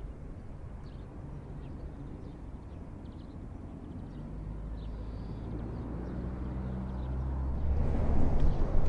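Mazda SKYACTIV test car's engine running as it drives through a cone slalom. The low engine note grows louder over the last couple of seconds.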